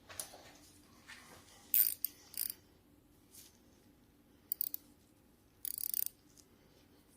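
Metal hand tools clicking and clinking in several short bursts, with a longer run of rapid clicks for about half a second near the end, typical of a ratchet being worked on bolts.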